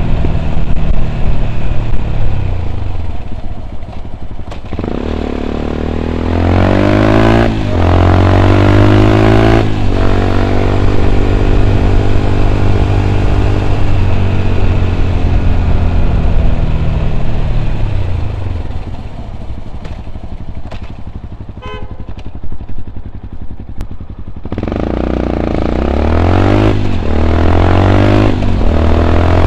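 Yamaha WR 125 X's single-cylinder four-stroke engine through an Arrow exhaust with a dB killer, riding in traffic. It accelerates through the gears with rising revs broken by quick upshifts, eases off to low revs around the middle, then pulls away again with two more upshifts near the end.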